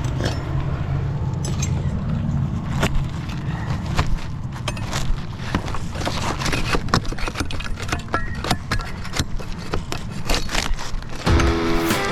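Roofing work: scattered sharp knocks, clicks and scrapes of tools and roofing material over a steady low motor hum. Music with a guitar comes in near the end.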